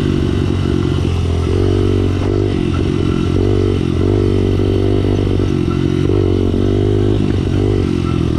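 Pit bike's small engine running under way, its pitch rising and falling in steps as the throttle opens and closes, over steady wind and riding noise.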